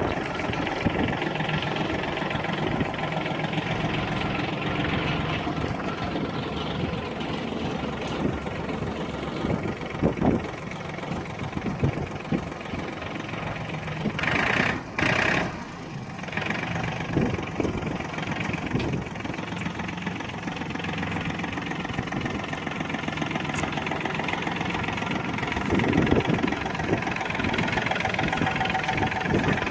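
Yanmar EF222 tractor's diesel engine running steadily. About halfway through, a brief higher-pitched sound lasting a second or two rises over the engine.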